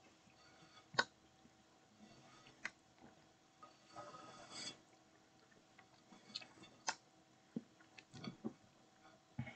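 Faint eating sounds of a person chewing food close to the microphone: scattered sharp mouth clicks, a short stretch of crunching about four seconds in, and a few soft low knocks near the end.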